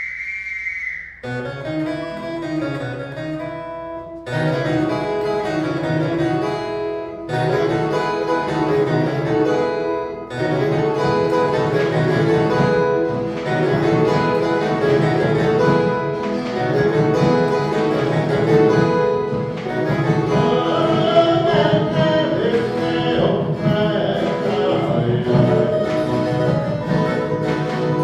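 A shrill whistle blast at the very start, in the manner of a folia de reis master's whistle, then an ensemble of violas caipiras starts a Christmas folia de reis piece with strummed and plucked chords. Voices join in singing about twenty seconds in.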